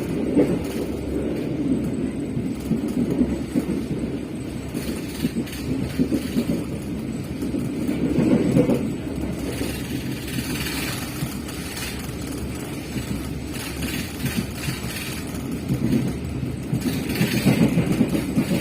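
Passenger train running along the track: a continuous low rumble that swells and eases, with brief hissing rises about halfway through and again near the end.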